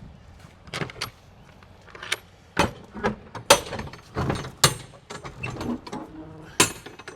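Window units and cargo being handled in a truck trailer: a string of irregular knocks, clunks and short scrapes, with a sharp bang near the end.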